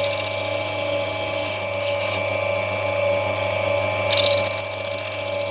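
Opal-cutting machine's motor running steadily while a black opal is pressed against its spinning wheel, giving a harsh grinding hiss until about two seconds in and again from about four seconds in.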